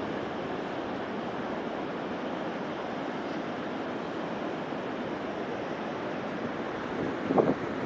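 Steady wash of sea surf with wind on the microphone, and one short louder sound about seven seconds in.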